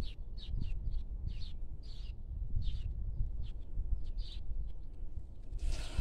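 Small birds chirping, with short high notes about twice a second, over a low rumble. A brief louder rustle comes near the end.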